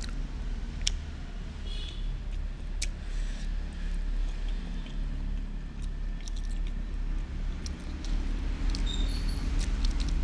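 A person eating rice: scattered light clicks and ticks of chewing and mouth noises over a steady low rumble.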